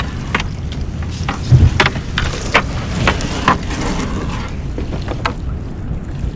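Steady low rumble of wind and a small fishing boat at sea, with irregular clicks and knocks from a crab gillnet being hauled and handled on deck, and one heavier thump about a second and a half in.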